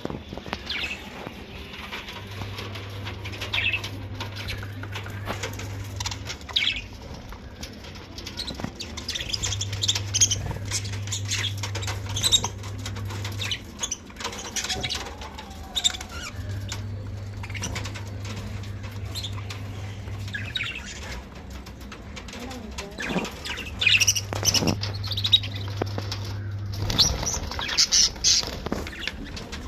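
Pet budgerigars fluttering their wings and chirping in short high bursts, with small scratchy clicks throughout. A low hum comes and goes in stretches of a few seconds.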